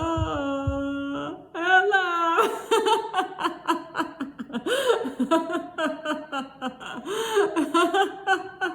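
A woman's voice holding one long tone for about a second, then breaking into steady, rapid laughing: deliberate laughter-yoga laughter.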